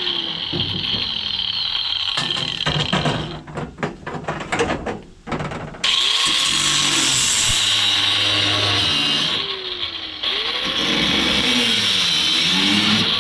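Handheld power tool cutting scrap metal pipe, running hard in stretches. It stops about three seconds in for a spell of clanks and knocks, starts again about two seconds later, and eases off briefly near the end before running again.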